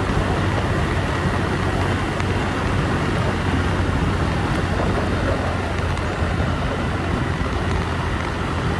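Motorbike riding along a road, its engine running at a steady low hum under an even wash of road and traffic noise.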